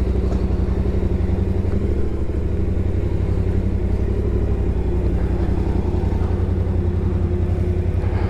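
Motorcycle engine running steadily at low speed, close by, with a fast even pulse and no revving.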